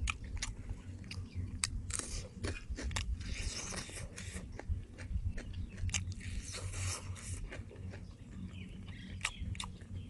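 Close-up eating of a crispy deep-fried chicken drumstick: biting into the fried skin and meat and chewing, with irregular sharp clicks and crunches.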